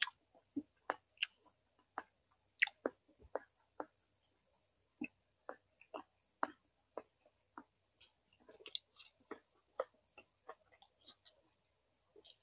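A person chewing roasted vegetables: soft, irregular wet mouth clicks and squelches, with a short pause a few seconds in.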